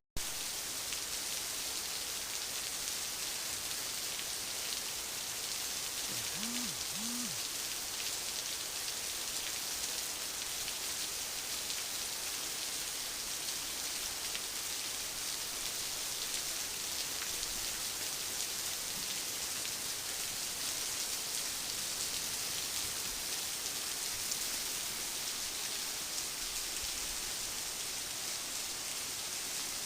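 A rainstorm: rain falling steadily, an even hiss of rain on surfaces with no let-up. About six seconds in, two short low tones sound in quick succession.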